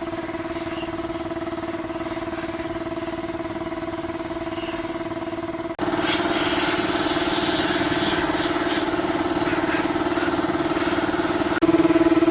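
A small motor running steadily at a constant speed, heard in three cut-together stretches that each get louder, with a scratchy hiss added for a few seconds in the middle stretch.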